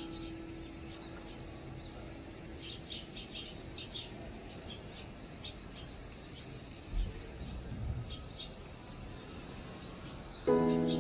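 Barn swallows giving short, high chirps in quick clusters, mostly in the first half, with a few soft low thuds just past halfway. Soft background music fades out at the start and comes back in near the end.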